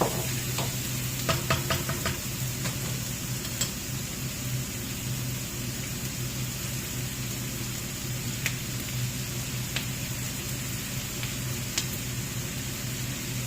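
Food sizzling in a frying pan over a steady low hum, with a quick run of utensil clicks against the pan in the first couple of seconds and a few single clicks later.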